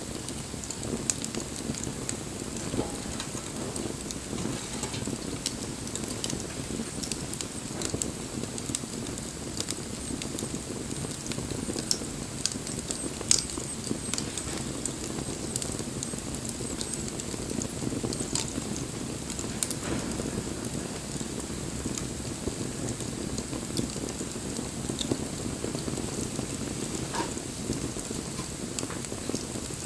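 Wood fire burning, crackling and hissing steadily with frequent sharp pops; one louder pop about thirteen seconds in.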